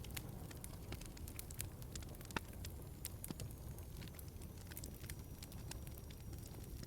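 Wood fire crackling in a fireplace: irregular sharp pops and snaps over a low steady rumble, with one louder snap about two and a half seconds in.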